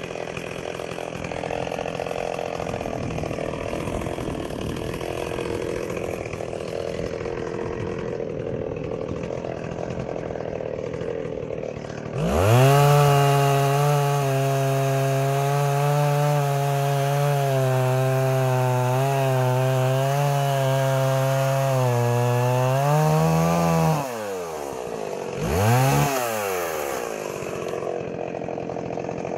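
Stihl 038 Magnum two-stroke chainsaw idling. About twelve seconds in it opens up to full throttle and holds a steady, loaded note for about twelve seconds while cutting wood. The pitch rises slightly as it comes through the cut, then drops back to idle, with one short rev of the throttle a couple of seconds later before it settles to idle again.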